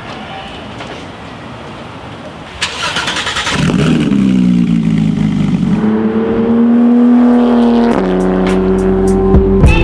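2014 Porsche 911 GT3 flat-six, breathing through a Fabspeed exhaust, starting up about two and a half seconds in with a loud burst. It then settles into a high idle that eases down and steps to a lower steady idle about eight seconds in.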